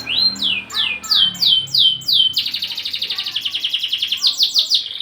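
Domestic canary singing: a run of whistled notes, each sweeping down, at about three to four a second. About two and a half seconds in, a fast rolling trill lasts nearly two seconds, then the sweeping notes return.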